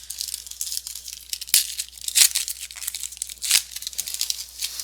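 Baseball card pack wrapper being torn open and crinkled: a run of rustling and crackling with sharper rips about one and a half, two and a quarter and three and a half seconds in.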